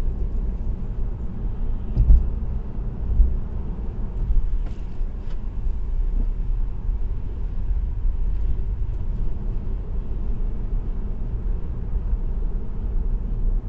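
Car travelling at expressway speed: steady low tyre and road rumble, with a couple of brief thumps about two and three seconds in.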